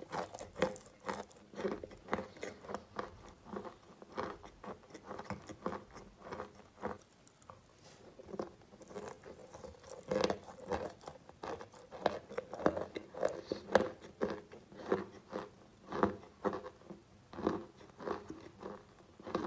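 Chalk being chewed close to the microphone: an irregular string of crunches, several a second, as the chalk breaks down into a wet paste in the mouth.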